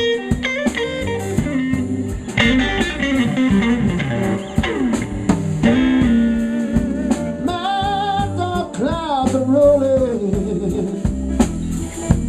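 Live electric blues band playing a slow blues: electric lead guitar fills with bent and wavering notes over bass and drums.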